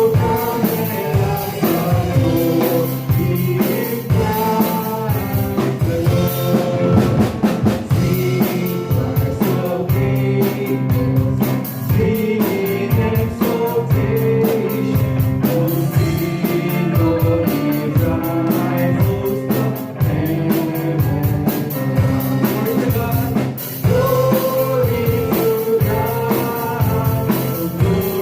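Live church worship band playing a hymn with drum kit and other instruments, voices singing the melody over a steady beat.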